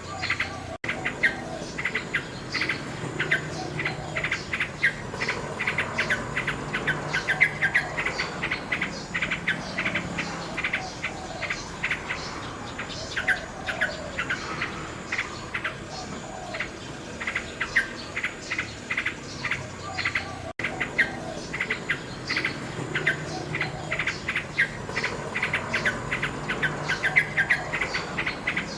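Nightingale singing in rapid repeated notes and whistled phrases over the steady chirping of crickets. The sound drops out for an instant twice, about a second in and again about twenty seconds in.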